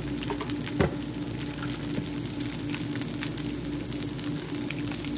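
Fried rice and diced sausage sizzling in a hot nonstick skillet, a steady crackle over a low steady hum, with one light knock about a second in.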